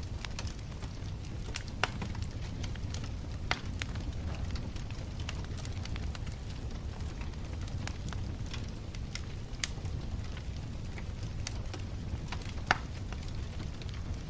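Wood bonfire burning, with a steady low rumble and scattered crackles. A few sharper pops stand out, the loudest near the end.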